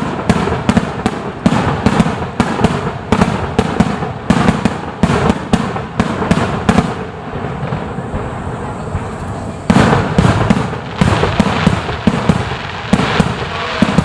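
Fireworks display: a rapid volley of bangs, several a second, easing off about halfway through and coming back loud a couple of seconds later.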